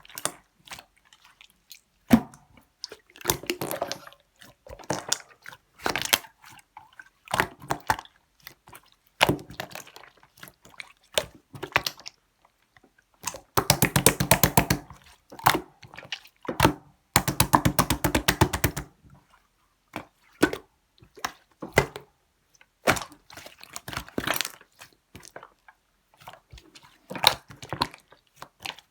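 Slime being squished, pressed and stretched by hand: scattered wet squelches and pops, with two long runs of rapid crackling clicks from air pockets popping, about halfway through and again a little later.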